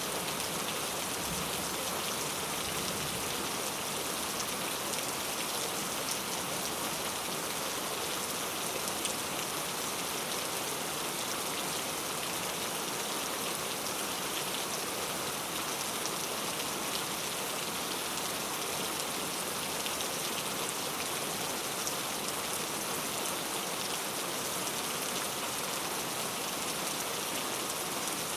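Steady heavy rain falling, a dense even hiss of drops with fine patter throughout.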